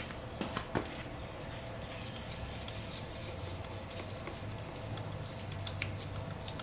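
Faint scattered clicks and light metallic taps of a wrench working the 12 mm oil drain bolt on the frame, over a low steady hum.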